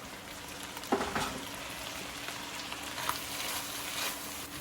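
Freshly added rinsed rice sizzling in hot fat in the pilaf pot after the sauté, a steady hiss with a few light knocks from a spoon stirring.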